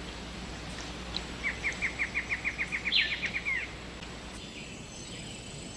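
A bird calling in a rapid run of about a dozen short, evenly spaced chirps, about five a second, over the steady hiss of rainforest ambience.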